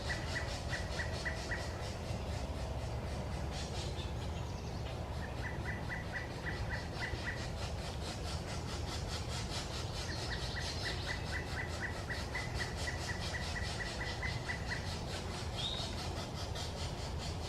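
Pileated woodpecker calling: runs of short, evenly spaced notes at about five a second, three runs, the last and longest lasting about five seconds. A steady low rumble of background noise runs underneath.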